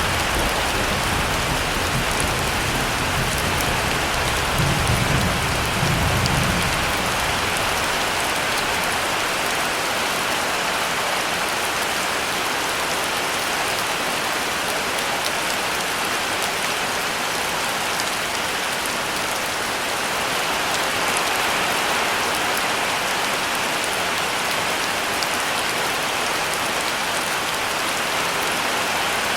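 Heavy rain falling steadily. A low rumble of thunder in the first several seconds dies away about seven seconds in.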